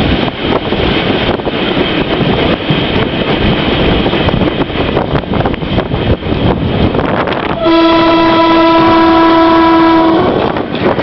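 Train running along the track with a steady rumbling rattle, then about two thirds of the way in a single steady blast of its horn lasting a couple of seconds.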